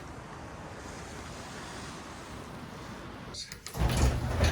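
A door being handled against drifted snow: a steady hiss, then near the end a sudden loud rumbling with knocks and rattles.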